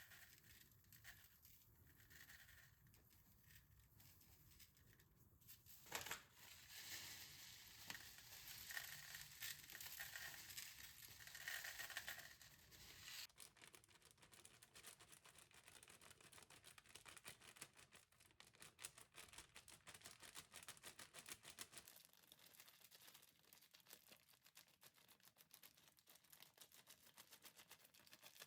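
Near silence with faint crinkling and rustling handling sounds, with a louder stretch of hiss from about six to thirteen seconds in.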